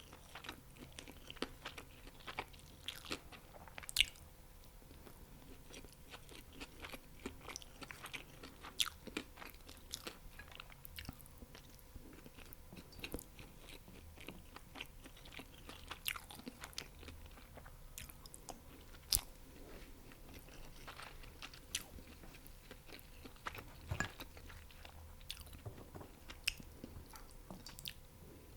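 Close-miked chewing of fried chicken wings and fried rice: irregular crisp crackles and wet mouth sounds, with a louder crunchy bite every few seconds.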